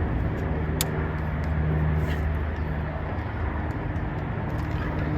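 An engine running steadily at idle, a low even hum, with one sharp click about a second in.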